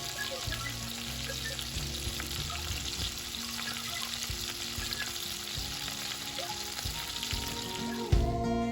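Food sizzling and crackling in hot oil, which stops shortly before the end, over quiet background music.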